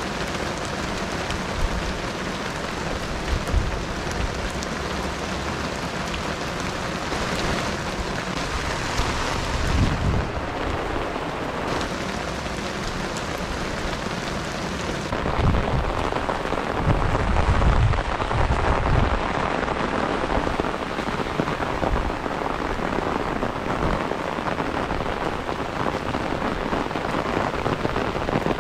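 Heavy rain falling steadily, with low rumbles about ten seconds in and again a little past the middle; the rain grows louder about halfway through.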